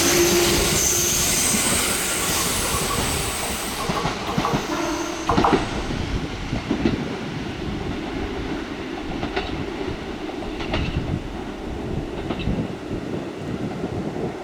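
Kintetsu electric train running past. A whine fades out about four seconds in, then the wheels clack over rail joints every second or so as the train's noise slowly dies away.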